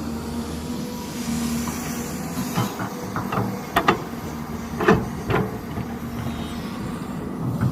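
Heavy diesel construction machine running steadily, with a short string of sharp knocks in the middle, loudest about four and five seconds in.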